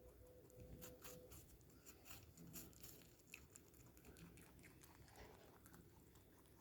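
Near silence, with faint scattered clicks and ticks mostly in the first half.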